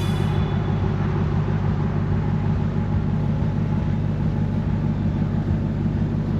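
Vehicle engine running steadily, a low even drone that cuts off suddenly at the end.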